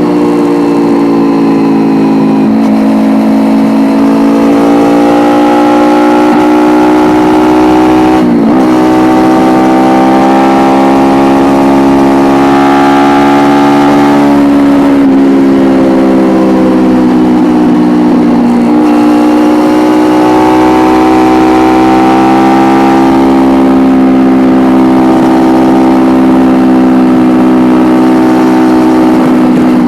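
Kawasaki Ninja 250R parallel-twin engine through an Akrapovic exhaust while riding, its note climbing with the throttle and dropping sharply at gear changes about three times, then holding fairly steady toward the end.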